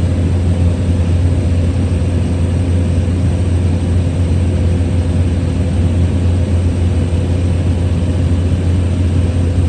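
Small plane's engine and propeller droning steadily at cruise, heard from inside the cabin.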